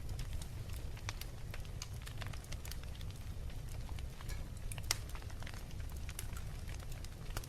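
Wood fire in a fireplace crackling, with irregular sharp pops over a low steady rumble; one louder pop about five seconds in.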